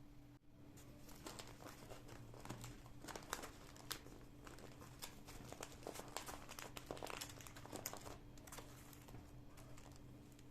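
Faint crinkling and rustling of packaging being handled, with many irregular small clicks and crackles, over a steady low hum.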